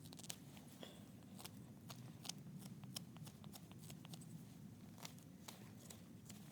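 A blade taking small cuts and shavings off wood: quiet, irregular sharp scrapes and clicks, two or three a second.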